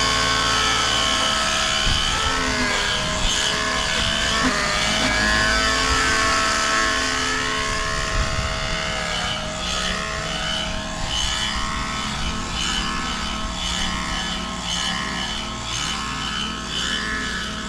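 Radio-controlled helicopter's 50-class nitro engine and rotors in flight: a steady engine whine with sweeping notes that rise and fall as it manoeuvres and passes. It runs on the throttle curve alone, with no governor.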